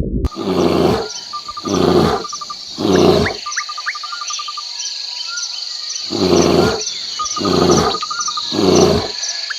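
An animal giving low calls in two runs of three: one run in the first few seconds and another after a pause. Behind them, birds trill and chirp steadily.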